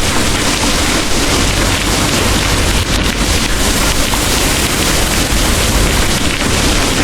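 Heavy rain pouring in a dense, steady hiss, with a deep low rumble underneath.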